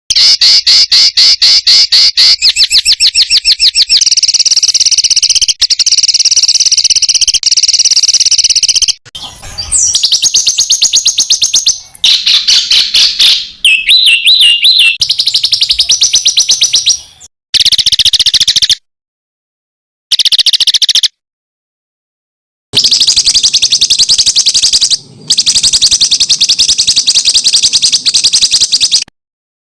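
Songbird singing a dense rapid-fire song of fast repeated high chips and trills, the 'tembakan' type of song used as masteran for competition birds. It stops abruptly for a few gaps of dead silence where recordings are joined.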